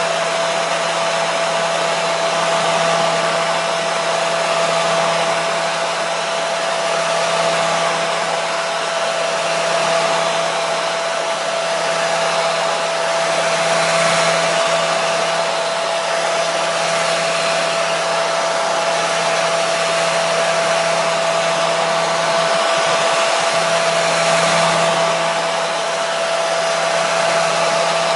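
Hair dryer running steadily: an even rush of air with a constant motor whine, unchanging throughout.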